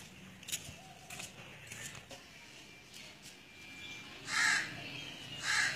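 A bird cawing twice, with short harsh calls about four seconds in and again near the end, over a faint background with a few light clicks.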